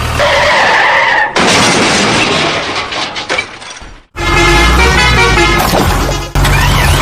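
Cartoon vehicle sound effects. A gliding tone sounds first, then a few seconds of skidding noise. After a brief cut, a vehicle engine runs steadily.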